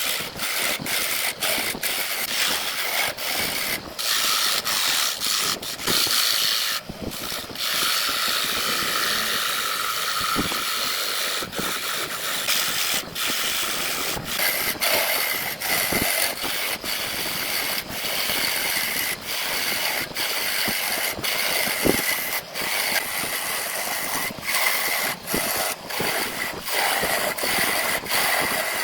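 Woodworking tool noise: a steady mechanical rasping, broken by many brief drop-outs.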